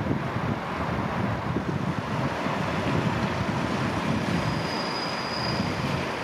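Passenger coaches rolling slowly over station points, a steady rumbling noise with a brief thin high wheel squeal about four and a half seconds in, under wind buffeting the microphone.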